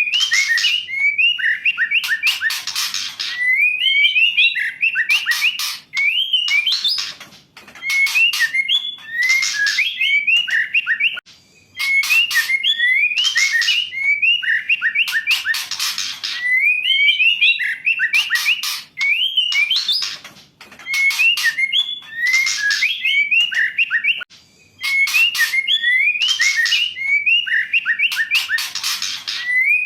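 Female white-rumped shama calling: short rising whistled notes mixed with harsh rasping chatter and sharp clicks, phrase after phrase with brief pauses. It is a female's call played as a lure to stir a reluctant male shama into song.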